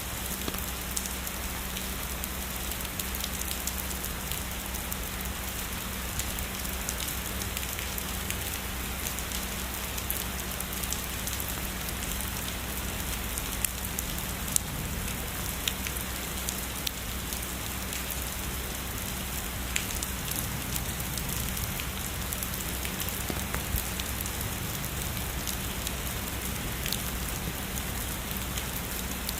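Steady heavy rainfall, a dense even hiss with single raindrops ticking close by. A few sharper drop hits stand out about halfway through.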